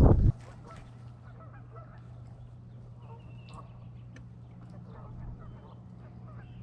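Geese honking in the distance, many short scattered calls, over a steady low hum. A loud rush of noise cuts off just at the start.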